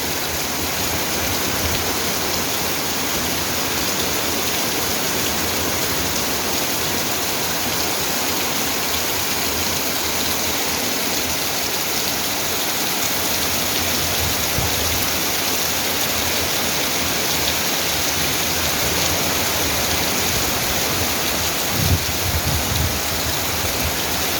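Heavy rain falling steadily, an even hiss. A couple of brief low thumps come near the end.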